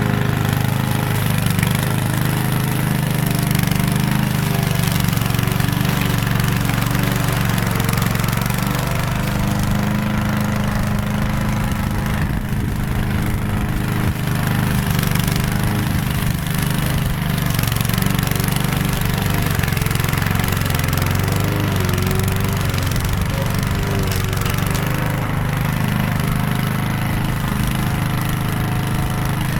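Small lawn mower engine running steadily at an even speed.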